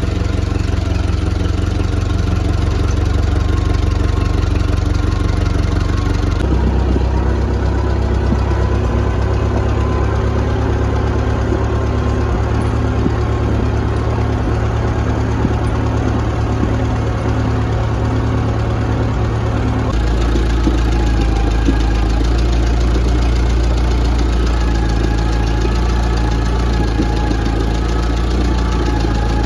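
An engine running steadily at a constant speed, with a deep, even hum. Its tone changes abruptly twice, about six seconds in and again about twenty seconds in.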